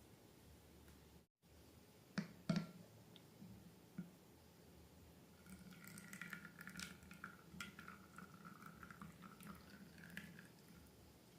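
Slime being squished and worked by hand: a few sharp wet clicks, then a run of small sticky crackles and squelches. It is faint throughout.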